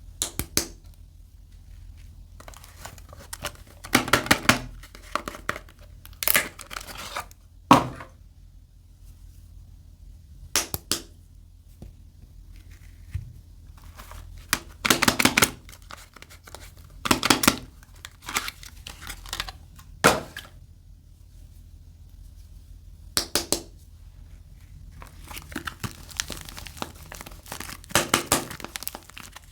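Soap packaging being torn open and crinkled by hand, in separate short tearing and rustling bursts every few seconds, with a longer run of crinkling near the end.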